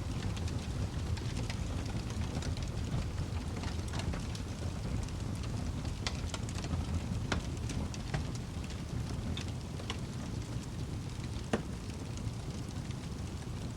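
Fireplace fire burning with a steady low rumble and scattered sharp crackles and pops, one louder pop near the end.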